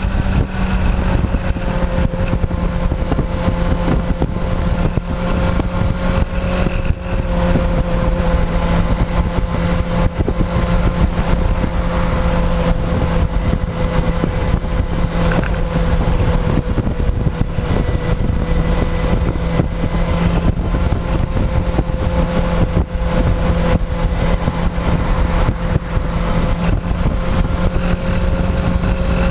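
Motorcycle engine running at steady cruising revs, heard close up from a fuel-tank-mounted camera, with heavy rumble from wind and road.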